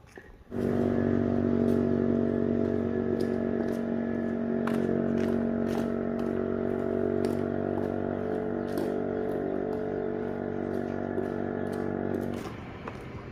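A small engine running at a steady, unchanging speed. It starts suddenly about half a second in and cuts off near the end.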